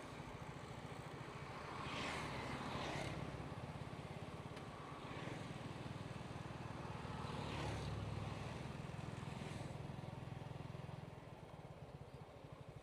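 Motorcycle engine running steadily under way, with road and wind noise. It swells louder about two seconds in and again around eight seconds, and eases off near the end.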